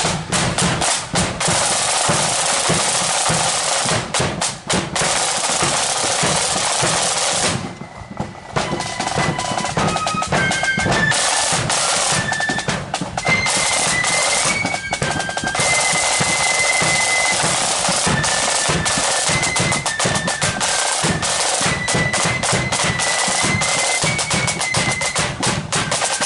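Marching flute band: snare drums rattling in rolls over a bass drum, then after a brief drop about eight seconds in, the flutes join playing a high melody over the drums.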